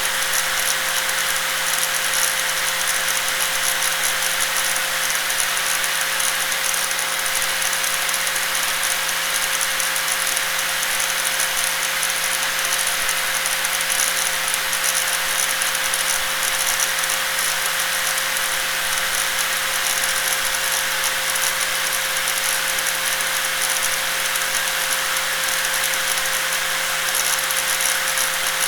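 Electric angle grinder running continuously at a steady speed, a steady whine over a dense high hiss with no change in pitch or load.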